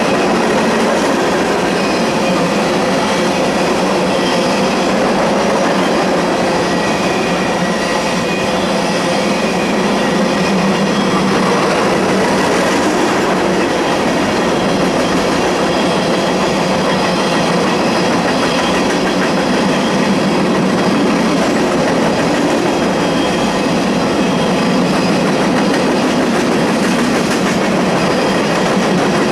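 Empty covered hopper cars of a grain freight train rolling steadily past: a loud, unbroken noise of steel wheels running on the rails.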